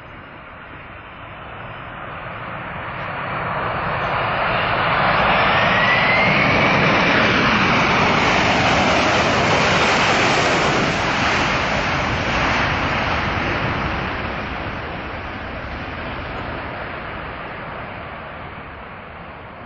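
Jet airliner's engines passing close: the roar builds over a few seconds, holds loud for several seconds, then fades slowly away. A high engine whine rises in pitch as the aircraft approaches.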